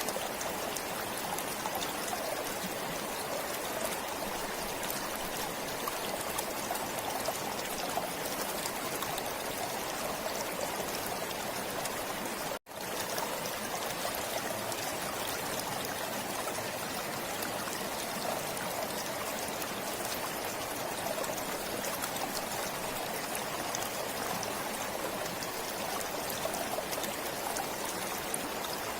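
Forest stream flowing steadily, water running and trickling. The sound cuts out for an instant about halfway through.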